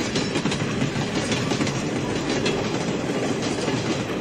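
Train running sound for the toy block train setting off: a steady rumble with a continuous rapid clatter of wheels on rails.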